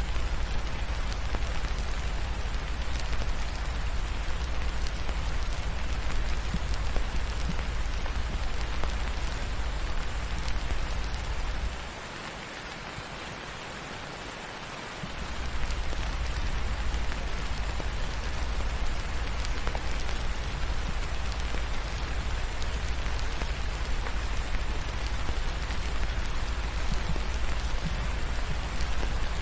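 Steady rain falling, with a deep low rumble underneath that drops out for about three seconds near the middle and then comes back.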